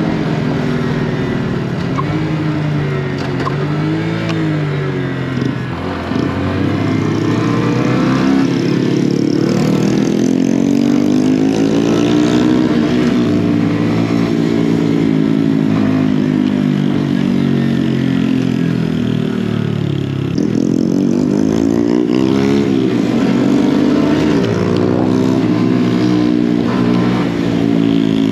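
Mini motorcycle engine running under way, its pitch rising and falling as the rider accelerates, shifts and eases off, with a deeper dip and climb twice.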